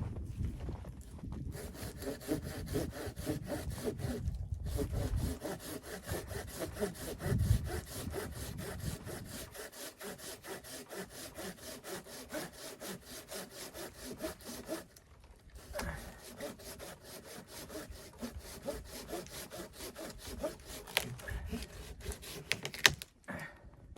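Wood being cut with a hand saw in rapid, even back-and-forth strokes, with two short pauses.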